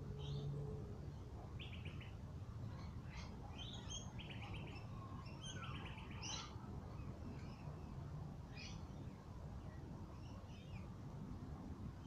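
Wild birds calling: scattered short chirps and several brief rapid trills, busiest in the middle, over a low steady rumble.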